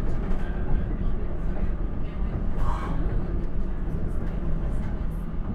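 Alstom Coradia iLint hydrogen fuel-cell train running along the track, heard from on board as a steady low rumble of wheels and running gear, with a brief brighter noise about two and a half seconds in.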